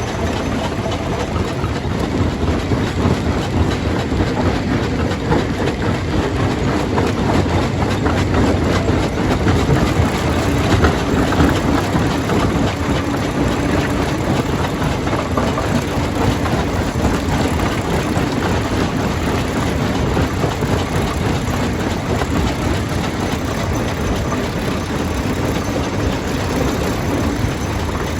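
Jaw crusher running under load, with rock crushing and rattling through it in a steady, dense clatter of knocks.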